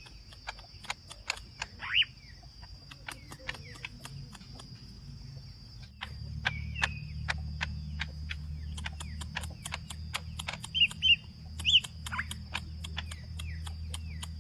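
Green leafbird (cucak ijo) calling: many sharp clicking notes, broken by a few loud whistled calls that sweep down in pitch, one about two seconds in and a cluster around eleven to twelve seconds. A low steady hum joins from about six seconds in.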